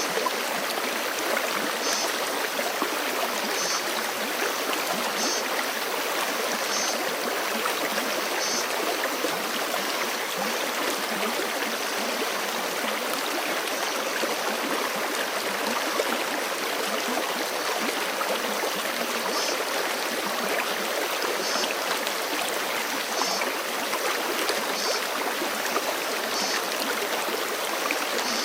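Forest creek rushing steadily over rocks. A faint, high, short chirp repeats about every second and a half in two runs, one in the first nine seconds and another from about two-thirds of the way through.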